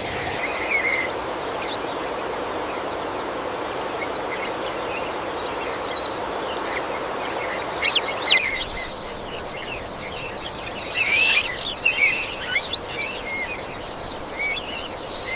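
Birds giving short, high chirps scattered over a steady background hiss of forest ambience. About eight seconds in, the hiss drops and the chirping grows busier.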